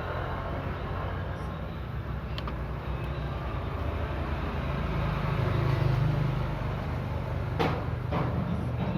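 A motor vehicle's engine running steadily, a little louder around the middle, with two sharp knocks close together near the end.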